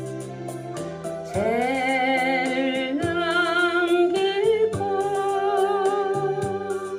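A woman singing a Korean folk ballad over a karaoke machine's backing track, holding long notes with vibrato; the voice comes in stronger about a second and a half in.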